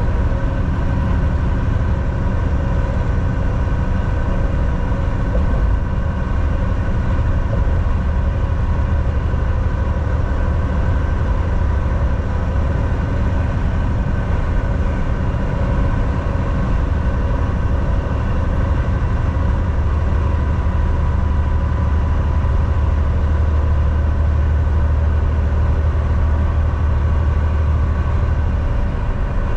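Volvo VNL 760 semi truck driving on the highway, heard from inside the cab: a steady low diesel engine drone with road noise, growing somewhat stronger about a third of the way in.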